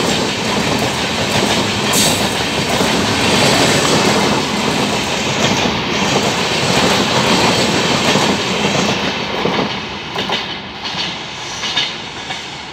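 Express train's LHB passenger coaches running past at speed, a steady rushing rattle with wheels clattering over the rail joints. It fades over the last few seconds as the tail of the train passes, with a couple of last sharp clacks.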